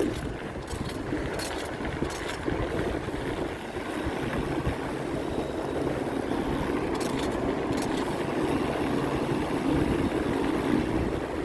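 Steady rushing, rumbling noise of wind and road noise while riding a bicycle, with a few light ticks.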